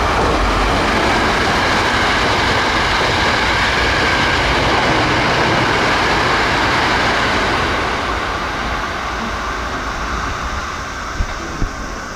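Hankyu Kobe Line limited express electric train passing at speed without stopping: a loud rush of wheel and motor noise that holds for about eight seconds and then fades as the train goes by, with a few sharp clicks near the end.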